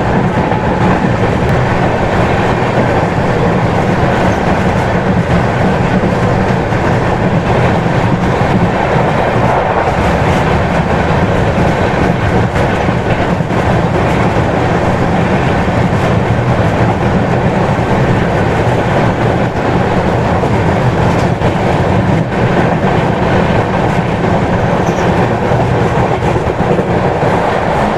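Express passenger train running at speed, heard from an open coach doorway: a loud, steady rumble of steel wheels on the rails.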